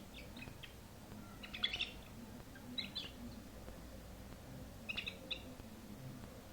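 Domestic canary chirping in short bursts: four brief clusters of quick high notes separated by pauses of a second or more.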